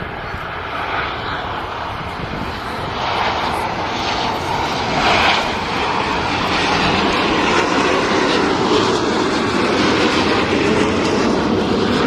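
Fixed-wing aircraft engine running, growing steadily louder as it comes closer.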